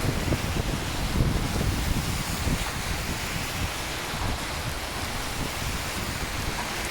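Steady rain hiss with a low rumble underneath, the rumble strongest over the first couple of seconds.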